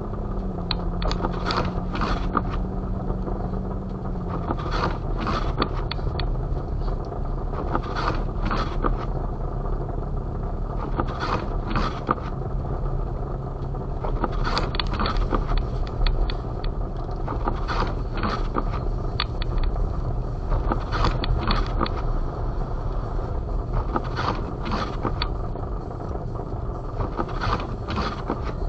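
A vehicle engine running with a steady low rumble; its hum steps down in pitch over the first few seconds. Frequent short hissing gusts of blizzard wind sound over it.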